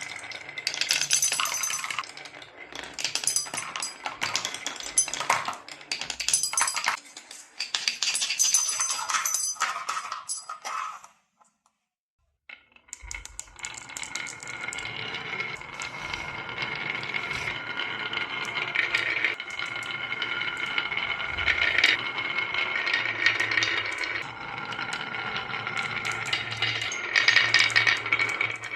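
Glass marbles clattering and clicking against each other in quick, dense rattles for about eleven seconds. The sound then cuts out for a moment, and background music with steady sustained notes takes over, with scattered clicks.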